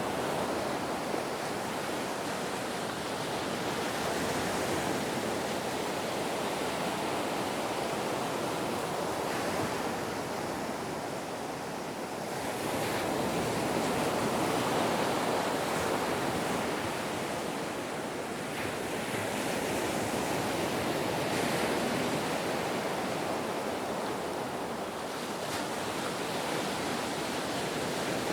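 Ocean waves washing in continuously, the surf swelling and easing slowly every several seconds.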